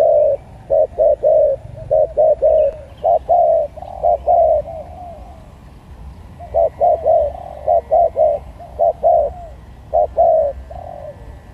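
Spotted dove (tekukur) cooing loudly in runs of short, quick coos, with a pause of about a second and a half midway.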